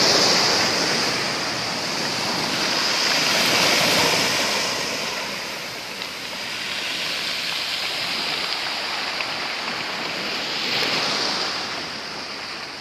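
Sea waves washing onto a beach of black stones, a continuous rushing hiss that swells about four seconds in and again near the end before easing off.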